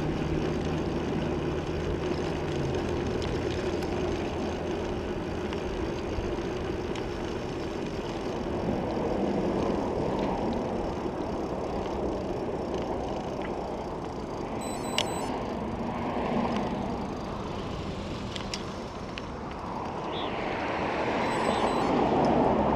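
Steady wind and road noise from riding a bicycle along a road with traffic, with a motor vehicle passing near the end, when the noise swells.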